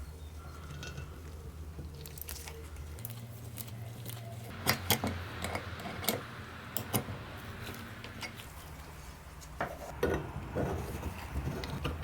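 Small metal parts clinking and knocking as they are handled, a scattered run of sharp clicks starting about halfway through, over a steady low hum.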